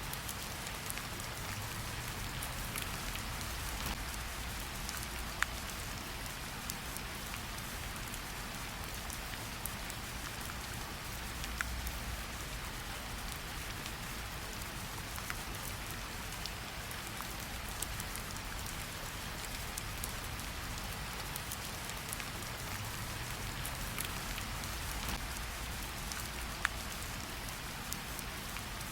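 Steady gentle rain pattering on tree leaves, with scattered separate drops dripping down and a few louder single drips.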